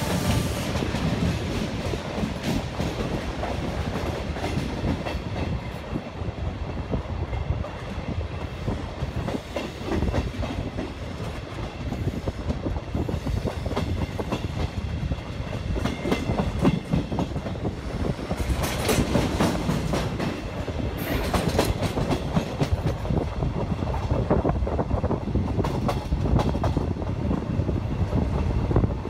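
Trenitalia regional passenger train pulling out of the station, its steel wheels clattering over rail joints and switches in a steady run of clicks and knocks.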